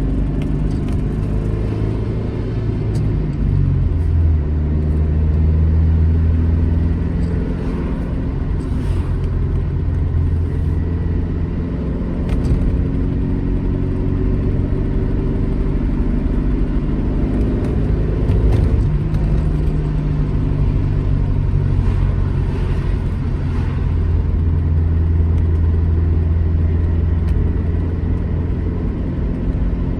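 Alfa Romeo GT Junior's twin-cam four-cylinder engine pulling the car along the road at fairly steady revs. The engine note shifts a few seconds in and again about two-thirds of the way through.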